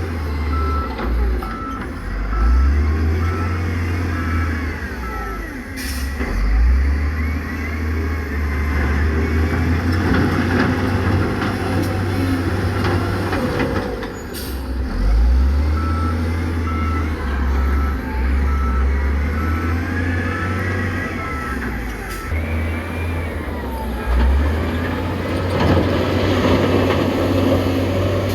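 Diesel engines of heavy construction machinery running under load, with a reversing alarm beeping steadily in the first few seconds and again in the second half. Rising and falling squeals sound over the engine noise.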